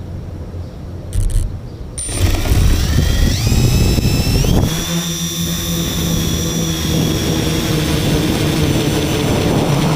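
Tricopter's electric motors spinning up about two seconds in, their whine climbing in steps and then holding steady at a high pitch.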